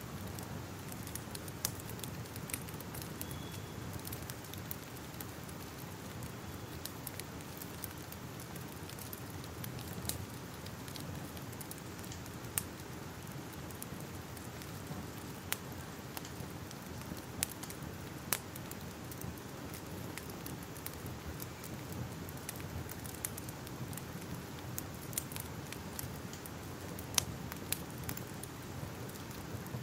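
Crackling fire: a steady low rumble of flames with irregular sharp crackles and pops, a few of them louder than the rest.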